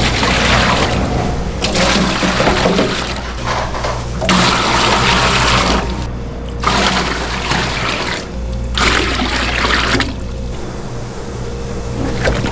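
Water gushing in repeated bursts of about a second each, over a steady low hum.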